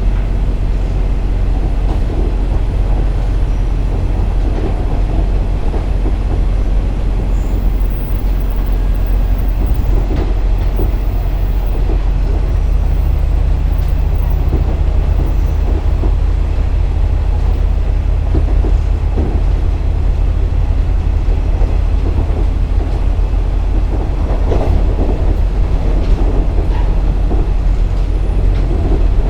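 KiHa 47 diesel railcar running on the line: a steady low diesel engine drone under wheel and rail noise, with scattered clicks of rail joints. About twelve seconds in, the engine note shifts and grows stronger.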